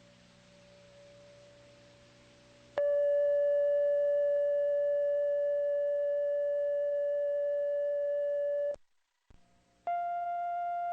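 Faint tape hiss and hum, then about three seconds in a loud, steady electronic tone starts, holds at one pitch for about six seconds and cuts off suddenly. After a brief dropout, a second steady tone at a slightly higher pitch begins near the end.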